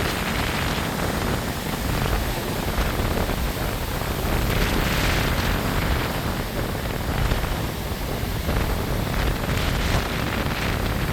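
Strong gusting wind buffeting the microphone, a heavy rumble rising and falling in gusts, over the rush of ocean surf.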